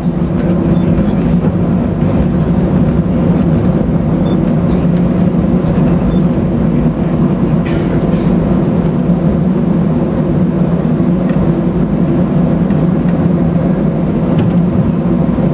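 Cabin noise inside an Airbus A319: its engines running with a steady hum and low rumble, holding the same pitch and level throughout.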